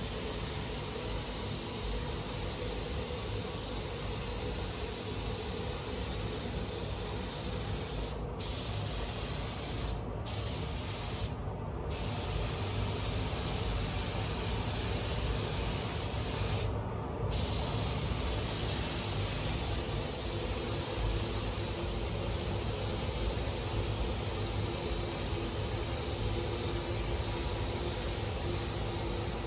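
Compressed-air spray gun hissing steadily as it sprays fast-drying primer in passes. The hiss cuts out briefly four times where the trigger is let off between passes.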